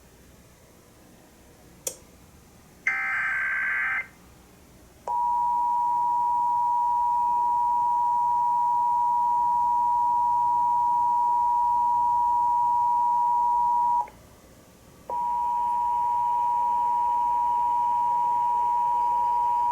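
Emergency Alert System broadcast: a click, then a one-second burst of digital data tones. After that comes the EAS attention signal, a steady two-tone sound of 853 and 960 Hz held for about nine seconds, which stops and after about a second's gap starts again.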